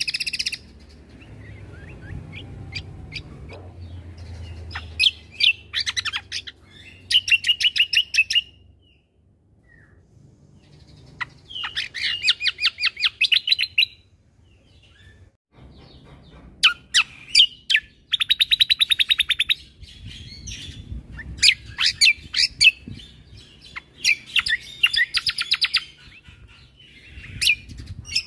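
Cucak kombo (kecial kombo) singing in bursts of rapid, high chattering trills, each phrase a quick run of repeated notes lasting a second or two, with short pauses between phrases.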